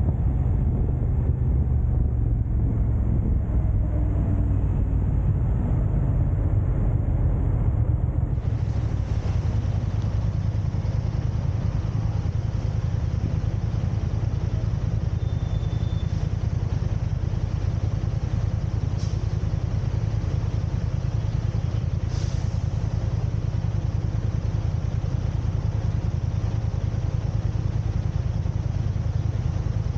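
Steady low rumble of a car's road and engine noise while driving in traffic, with a higher hiss joining about a quarter of the way in.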